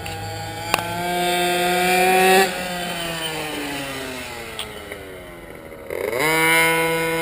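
Racing vehicle engine under throttle, revs climbing, then cut abruptly about two and a half seconds in. The pitch falls steadily for several seconds as it slows, then the revs pick up sharply near the end.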